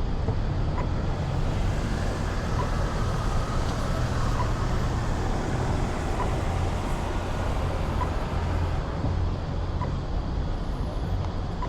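Steady road traffic rumbling past, with a faint short high tick repeating about every two seconds.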